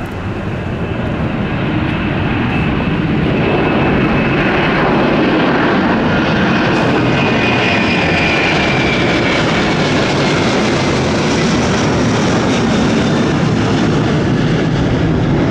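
Jet airliner's engines passing close overhead: a loud roar that builds over the first few seconds and then holds, with a high whine in the middle that glides slightly downward.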